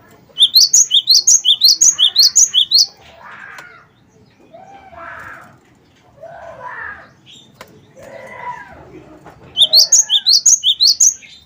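Gelatik batu (cinereous tit) singing: two loud runs of sharp, high, rising notes, about five a second, one at the start and one near the end, with softer, lower warbling calls in between.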